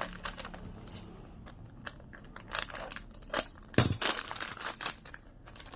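Plastic popsicle wrapper being torn open and crinkled by hand: irregular crackling rustles, the loudest a bit less than four seconds in.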